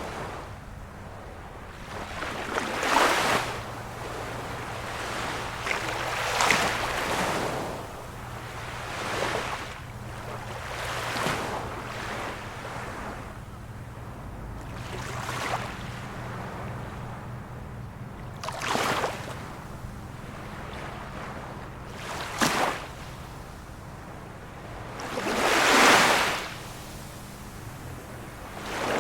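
Small waves of a calm sea breaking and washing on the shore, one surge every three to four seconds, a few of them ending in a brief sharp splash.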